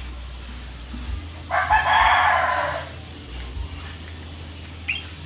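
A single loud, harsh bird call lasting about a second and a half, starting about a second and a half in, followed by a few short, high chirps or clicks.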